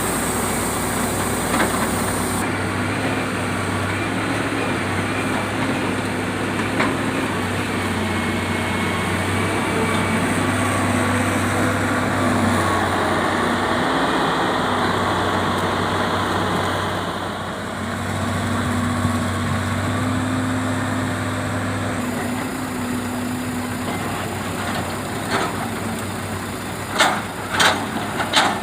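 Heavy diesel engine running steadily, its note wavering slightly as the load on it changes. A series of sharp knocks comes near the end.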